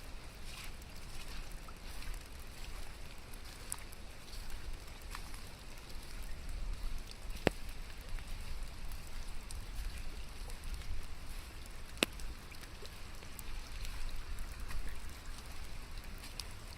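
Steady rain falling, with scattered ticks of drops and a low rumble underneath; two sharper, louder ticks stand out, one about halfway through and one a few seconds later.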